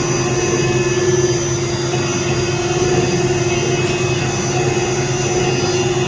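CNC engraving machine running steadily: a constant whine with a strong steady pitch and thin high tones over a noisy hiss, with no breaks.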